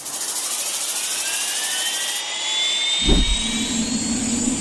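Jet engine running with a loud hiss and a whine that rises slowly in pitch. About three seconds in, a low thump is followed by a steady low hum.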